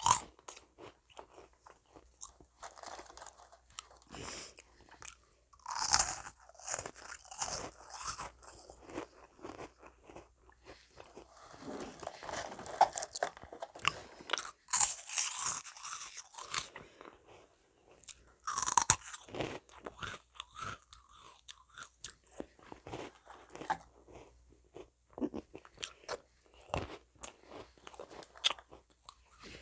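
Crisp meringue cookies crunching and crackling as they are bitten and chewed, a run of sharp little crackles with denser, louder stretches about six seconds in, from about twelve to seventeen seconds, and again near nineteen seconds.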